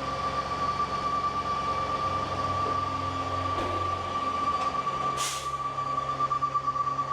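Ladder truck's diesel engine running steadily, with a constant high whine over it, and one short burst of hissing air about five seconds in, as from the truck's air brakes.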